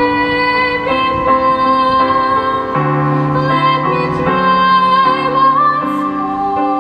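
A girl singing in classical style, holding a long high note that lifts slightly near the end, over piano accompaniment.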